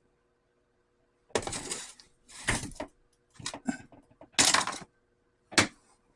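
Small metal parts and hardware clattering as they are rummaged through on a workbench, in four or five short rattling bursts, then a sharp click near the end.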